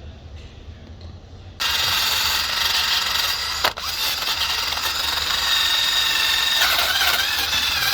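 Power drill spinning a nylon abrasive brush against an alloy surface, starting suddenly about a second and a half in and running steadily with a high whine. A single sharp click partway through.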